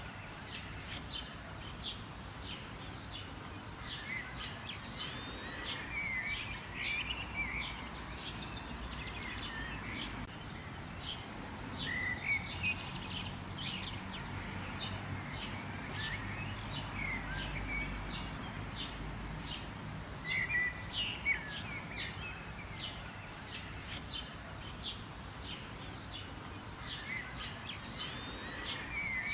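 Several small birds chirping and singing together, many short repeated chirps and warbling phrases over a faint low background rumble.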